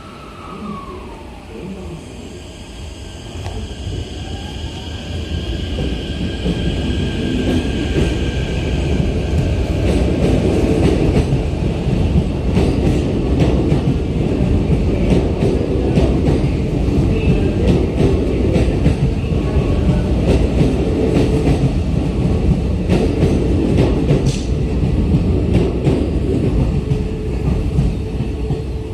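Keikyu New 1000 series electric train pulling out of the station: the motor tones glide in pitch as it starts off. It grows louder over several seconds and goes by with a steady rumble and rapid wheel clatter over the rail joints.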